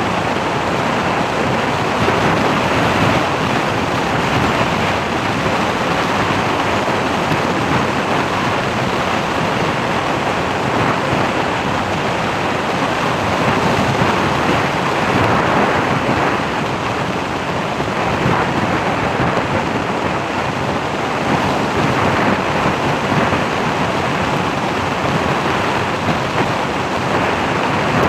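Steady, loud rushing noise of wind across the microphone, with no distinct events.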